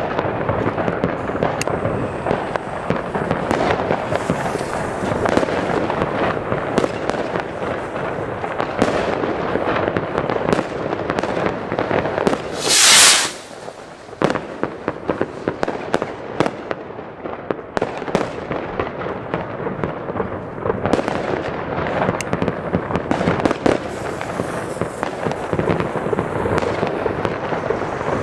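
Comet Tornado fireworks rockets firing in quick succession: a dense, continuous run of crackling launches and pops, with one louder hissing burst about thirteen seconds in, a short lull, then more crackling.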